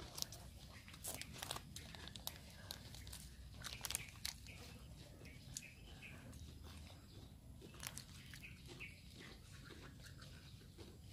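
A person eating with her hands close to the microphone: faint chewing, crunching and sharp mouth clicks, more of them in the first few seconds.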